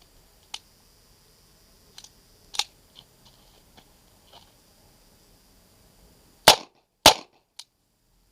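Two sharp .22 rimfire pistol shots from a USFA Zip 22, about half a second apart, fired with Federal AutoMatch rounds. Before them come several fainter sharp clicks and pops, and a small click follows the second shot.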